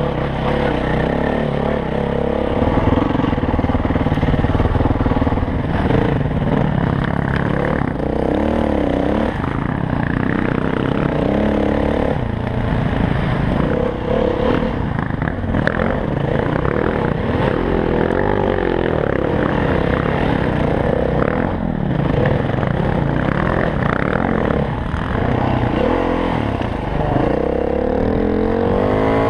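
Dirt bike engine running under load on a trail, its pitch rising and falling again and again as the throttle is opened and closed, with knocks and rattles over rough ground.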